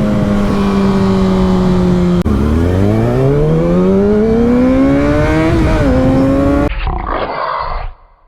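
Sportbike engine heard from the rider's helmet: it holds steady revs, drops suddenly about two seconds in, then climbs steadily under hard acceleration with a brief dip at a gear change. Near the end the engine gives way to a rush of wind noise that fades out.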